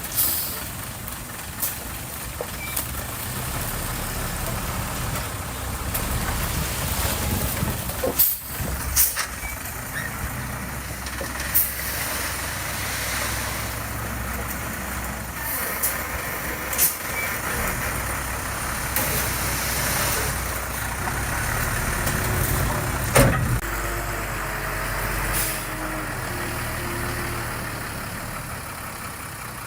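Diesel engines of heavy earthmoving machinery, a bulldozer and dump truck, running steadily with several sharp knocks scattered through, the loudest about two-thirds of the way in.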